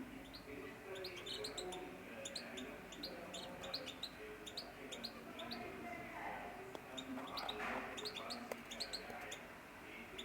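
Canaries chirping: many short, high calls in quick succession, from several birds at once.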